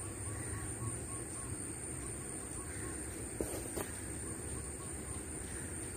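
Steady outdoor background noise with faint bird calls: a quick run of short chirps in the first two seconds, then two short calls about three and a half seconds in.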